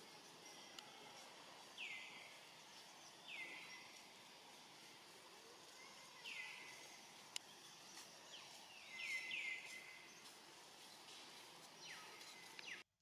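Faint outdoor background with a bird repeatedly giving short, high calls that slide quickly downward, every second or two, with several in quick succession about two-thirds of the way in. A single sharp click about seven seconds in.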